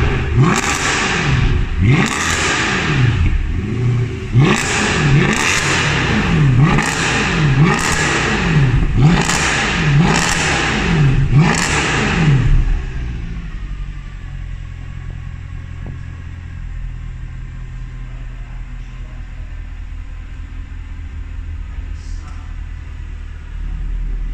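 Mercedes C63 AMG W204's 6.2 V8 through a custom exhaust with an X-pipe, blipped about ten times in quick succession, each rev rising and dropping back. After about twelve seconds it settles to a steady idle.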